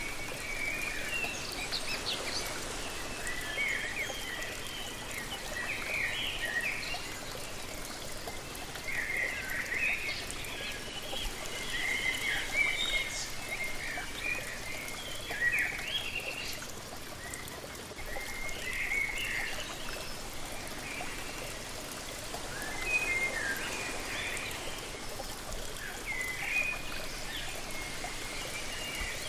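Steady rush of falling water from a waterfall, with birds chirping in short clusters of high notes every few seconds.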